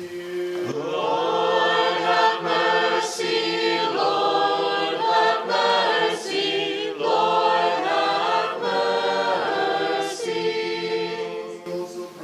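Church choir singing a cappella: a sung response of the Ekteny litany in a Ukrainian Catholic service, in several held phrases that change pitch together.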